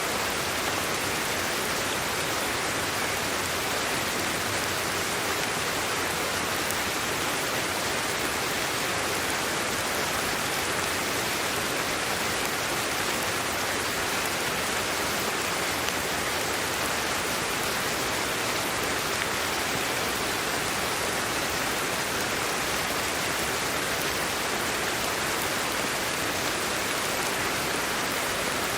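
Steady sleep-aid white noise: an even, unbroken hiss that does not change.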